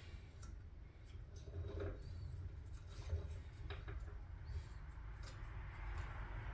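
Faint scattered clicks and light scrapes of small parts being handled while a gear in an outboard lower unit is greased, over a low steady hum.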